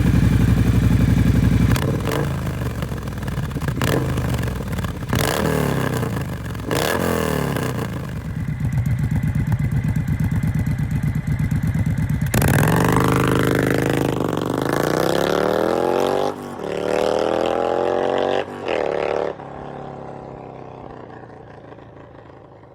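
Triumph Bonneville T120's 1200 cc parallel-twin engine running loud through an aftermarket 2-into-1 exhaust, just after starting. The throttle is blipped several times, then revved up and down in longer sweeps before the sound eases off and fades near the end.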